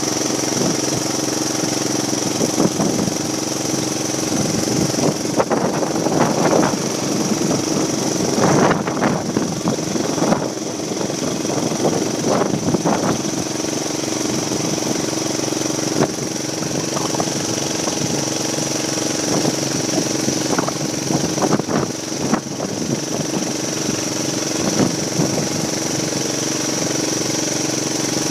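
Tractor engine running steadily with an even drone. Irregular clattering knocks come through from about 5 to 13 seconds in and again around 21 seconds.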